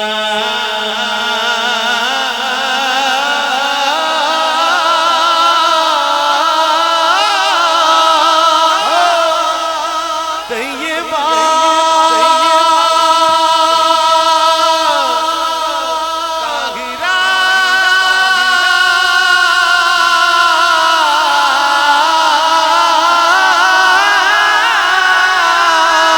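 A male naat reciter singing without instruments, holding long drawn-out notes with wavering ornaments between the words. There are two short breaks in the line, one near the middle and one about two-thirds through.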